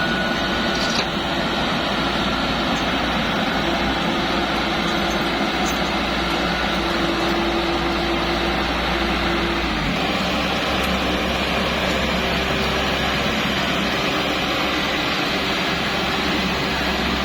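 Bimo Plus rice thresher running steadily: a continuous mechanical drone from its engine and threshing drum. The low hum changes slightly about ten seconds in.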